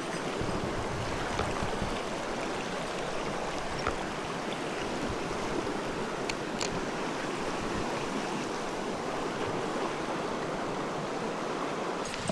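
Mountain stream running: a steady, even wash of flowing water.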